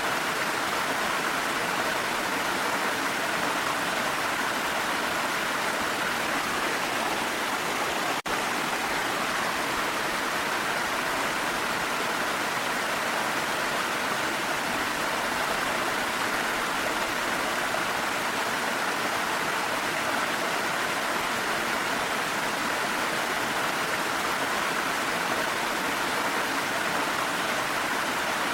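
Waterfall rushing steadily, an even wash of falling water with no change, apart from a split-second dropout about eight seconds in.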